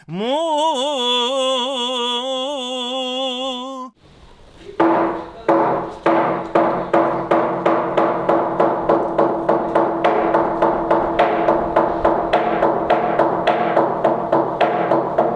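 Byzantine-style chant: a man's voice sings a held, ornamented note, which cuts off about four seconds in. Then comes a steady rhythmic striking, about two to three blows a second, over a lingering ringing tone.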